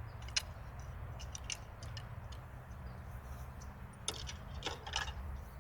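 A few light metallic clicks and rattles from a Crosman Triple Threat CO2 air revolver being handled, with a louder pair of clicks about four to five seconds in.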